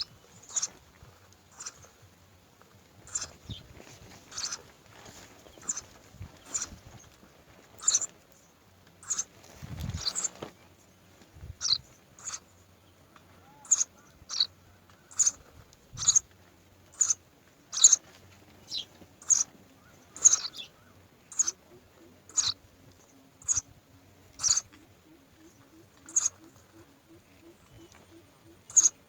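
A bird giving short, sharp high-pitched chirps over and over, about one a second.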